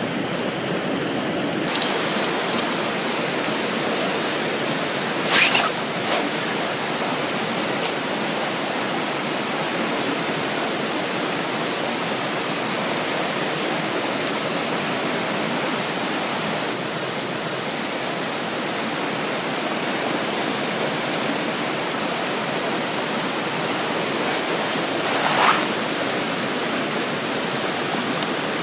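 Steady rushing of a flowing river, with two brief louder sounds, one about five seconds in and one near the end.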